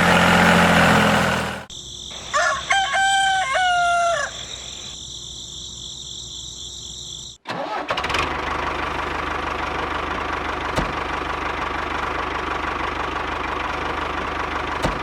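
A rooster crows once, about two to four seconds in, after a brief burst of noise at the start. From about seven and a half seconds a steady engine-like running sound sets in and holds.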